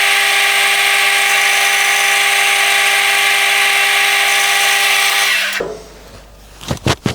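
Metal lathe running steadily with a constant whine, then stopping about five and a half seconds in. A few sharp knocks follow near the end.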